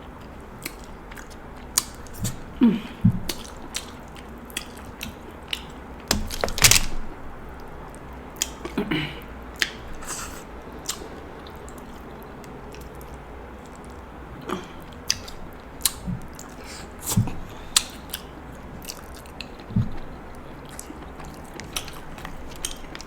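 A person eating king crab close to the microphone: chewing and biting, with many short, sharp clicks and smacks scattered irregularly, loudest about six to seven seconds in.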